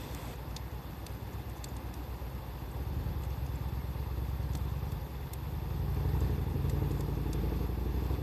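Wood fire crackling, with sparse sharp pops, over a steady low rumble that swells about six seconds in.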